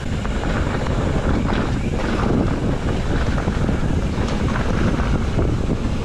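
Wind buffeting the microphone of a camera carried on a moving mountain bike, a steady rough rumble.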